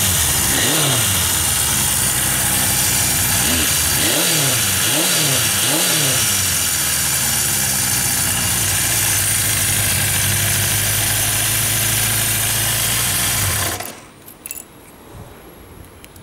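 1975 Honda CB750 Super Sport's air-cooled inline four-cylinder engine idling. Its throttle is blipped once about half a second in and three more times in quick succession around four to six seconds in. The engine stops about fourteen seconds in, leaving only faint clicks.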